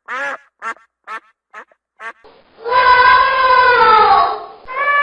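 A duck quacking in quick short calls, about three a second, for roughly two seconds. Then a different recording cuts in: a louder, long, steady-pitched wail that sags in pitch near its end, with another one starting just before the end.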